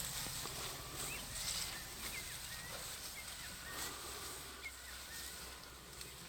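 Quiet outdoor bush ambience with a series of short, high bird chirps and calls scattered through it, over a faint steady low hum.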